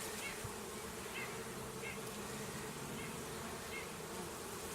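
Honeybees buzzing steadily around a freshly opened and disturbed hive, a low even drone of many bees in flight.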